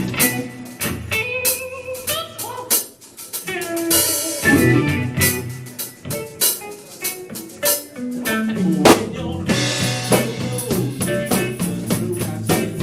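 Live band playing an instrumental opening after the count-in: drum kit with snare and cymbal hits, electric guitar and a bass line.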